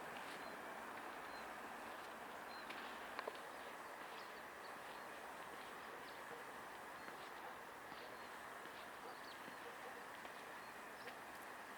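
Outdoor town ambience: a steady background hum with scattered short, faint bird chirps, and a couple of small clicks about three seconds in.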